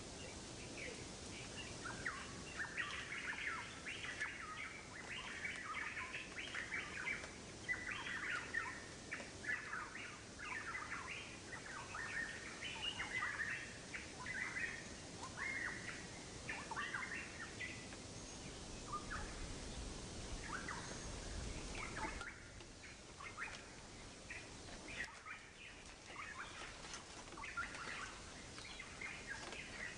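Small birds chirping in quick, short calls over a faint steady hiss.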